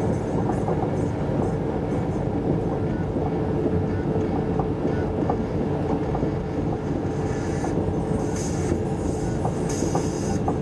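Cabin noise of an SJ 3000 (X55) electric multiple-unit train running at speed: a steady low rumble with a faint steady hum and occasional light clicks from the track. From about seven seconds in, short bursts of high hiss come and go over the rumble.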